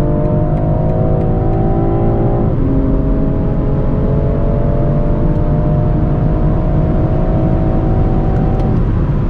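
Tuned BMW M340i's turbocharged 3.0-litre inline-six under full-throttle acceleration at high speed, its note climbing slowly through a gear. A quick upshift about two and a half seconds in drops the pitch, then it climbs again until the engine note fades out near the end, over a loud low rumble.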